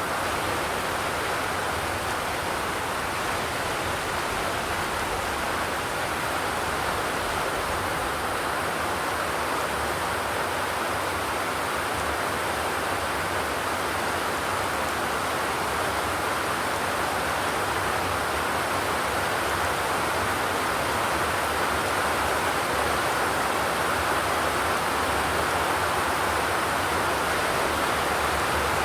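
Steady rain falling on a zinc roof, an even unbroken hiss with no thunder.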